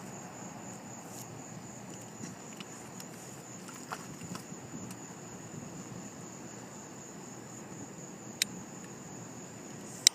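Night insects trilling in a steady, high, continuous tone over a low background hum, with a few brief sharp clicks.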